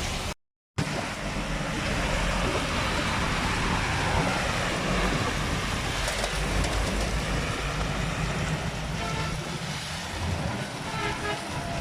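Rain and wet street traffic: a steady wash of rain and tyre noise with a low vehicle rumble. The sound cuts out completely for a moment just after the start, and a few short pitched tones sound near the end.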